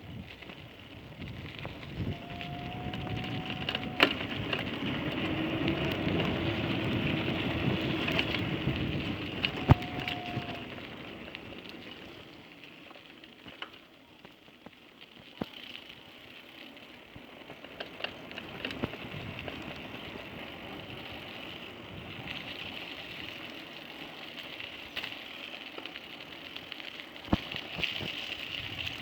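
Street and road noise heard while riding a bicycle: a steady rushing of tyres and moving air with scattered clicks. A motor vehicle passes, swelling from about two seconds in and fading by about eleven seconds.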